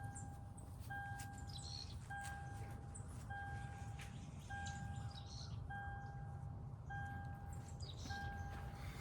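A repeating electronic beep: a steady half-second tone sounding about every 1.2 seconds. Faint high chirps, like birds, come now and then.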